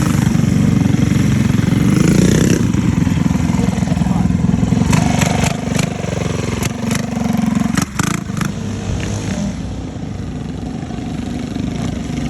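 Small minibike engines running hard at racing speed, loud throughout, easing off somewhat in the last few seconds. A cluster of sharp clicks comes through about halfway.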